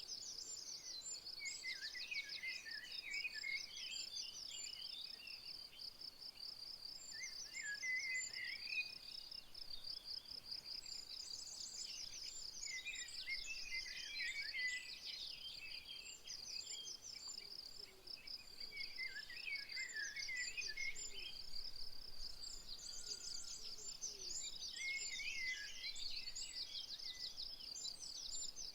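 An insect's steady, fast-pulsing high trill runs without a break. Over it, a songbird sings short, varied phrases about every five to six seconds.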